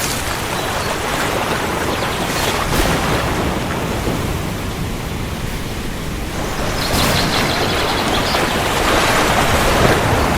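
Heavy rain, a dense steady hiss that eases slightly in the middle and swells louder about seven seconds in.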